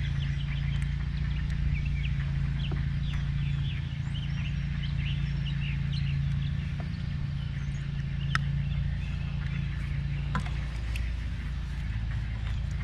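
Birds chirping and calling in many short, quick notes, busiest in the first half and thinning out later, over a steady low hum, with a few sharp clicks.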